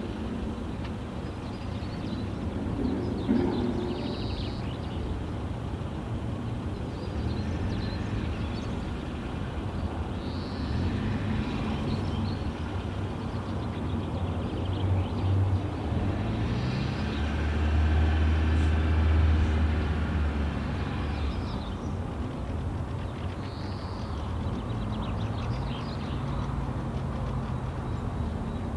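Outdoor ambience: a steady low engine-like rumble that swells for a few seconds about two-thirds of the way through, with several short, high bird calls over it.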